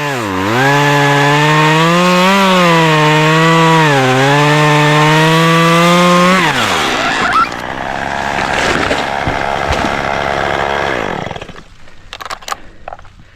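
Chainsaw at full throttle cutting through an oak limb, its pitch sagging and recovering twice under load, then throttled off about six seconds in. About four seconds of crashing and rustling follow.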